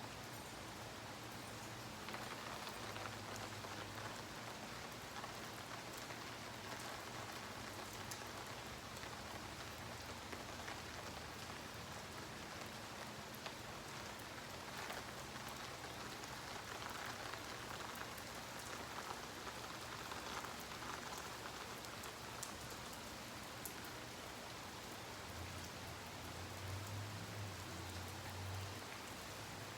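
Steady rain falling in a rainstorm: an even hiss of rain on the ground with scattered individual drop clicks.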